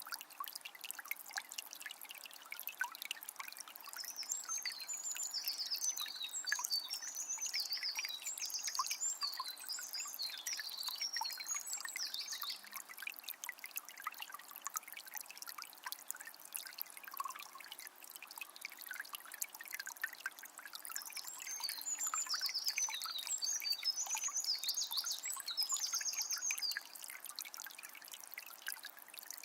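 A small spring trickling and splashing steadily, with many small drips. A songbird sings two long bouts of fast, high chirping notes over it, one from about four seconds in and another from about twenty-one seconds in.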